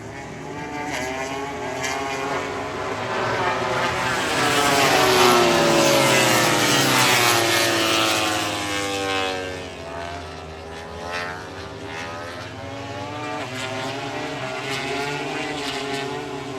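MotoGP racing motorcycle's four-cylinder four-stroke engine passing at high revs, loudest about five to seven seconds in, its pitch falling as it moves away, with engine sound from the track carrying on afterwards.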